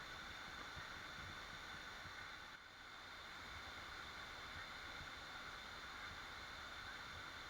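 Waterfall: a steady rush of falling water, with a brief dip in level about two and a half seconds in.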